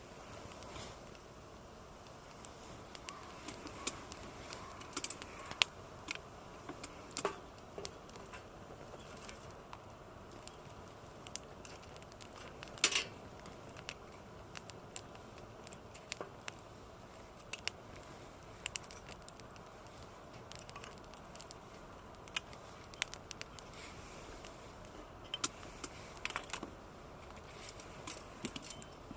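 Scattered sharp clicks, clinks and knocks at irregular intervals over a faint steady hiss, the loudest just before halfway.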